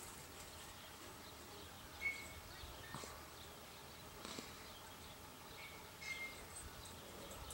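Quiet outdoor background with a few short, high bird chirps, about two seconds in and again near the end, and a couple of faint knocks.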